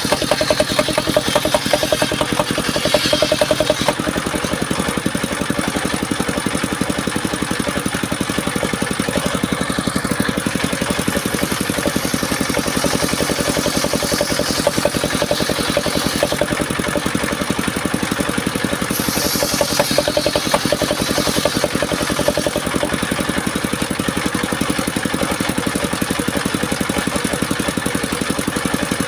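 Engine of a circular-saw sawmill running steadily, with a higher hiss swelling a few times over its even rhythm.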